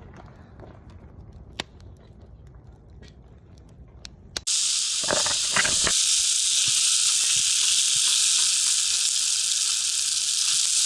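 Wood fire burning in a homemade fire pit: a low rumble with scattered crackles. About four seconds in, it cuts suddenly to a loud, steady hiss.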